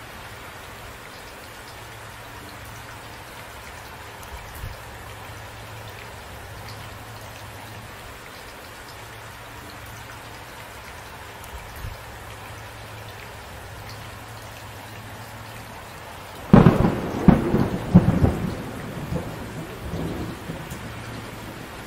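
Steady rain falling, then about three-quarters of the way through a close thunderclap: a sudden loud crack followed by several sharper cracks over about a second and a half, rumbling away over the next few seconds.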